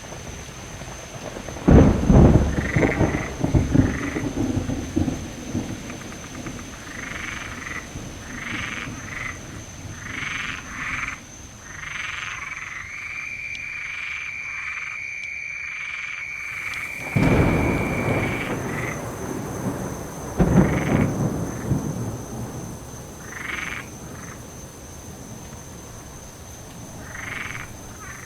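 Thunder cracking and rumbling three times, about two seconds in and twice more between about 17 and 21 seconds, over steady rain. Frogs croak in short repeated pulsed calls throughout.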